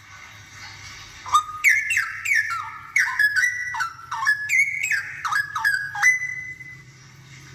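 Straw-headed bulbul (cucak rowo) singing: a loud, rich phrase of quick whistled notes, many of them dropping in pitch, starting about a second in and ending about six seconds in.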